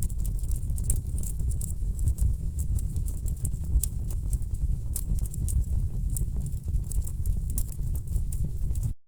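Wood fire crackling and popping in a fireplace: irregular sharp snaps over a steady low rumble of burning logs. The sound drops out for a moment just before the end.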